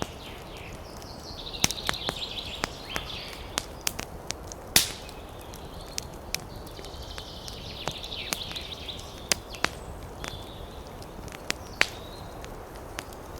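Wood fire crackling: irregular sharp pops and snaps over a steady low rush, the loudest pop about five seconds in. Twice a high, fluttering hiss rises out of it for a second or two.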